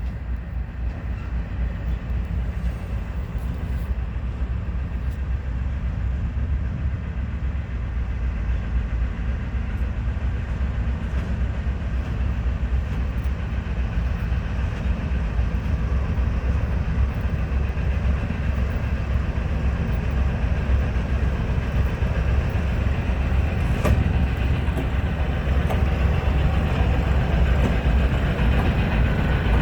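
A class 311D locomotive approaching with its train: a steady low engine rumble with rail noise, growing gradually louder as it comes in.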